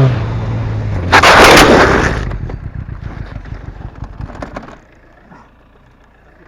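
Yamaha R6 motorcycle crashing: the engine note drops, then about a second in comes a loud crash of the bike going down onto the road, followed by scraping and clattering that die away about five seconds in. The bike went down after its rear end slid out.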